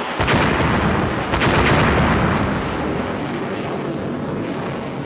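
Two loud booms about a second apart, followed by a rumble that slowly fades.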